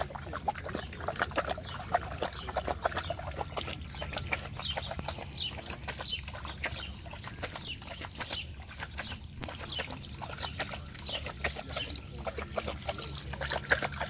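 Rottweiler lapping up water with its tongue, a fast, steady run of wet laps that goes on without a break.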